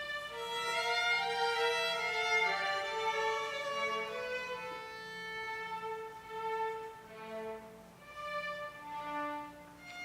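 Violin playing a slow melody of long held notes, growing softer in the second half with brief quiet dips between phrases.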